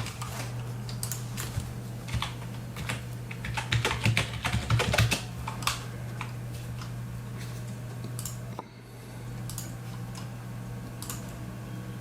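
Typing and clicking on a computer keyboard, densest about four to five seconds in, over the steady low hum of the running PC.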